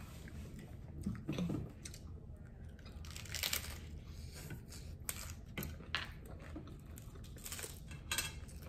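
Close-up eating sounds: hard taco shells crunching and being chewed in irregular short bursts, the crunchiest stretch about three seconds in.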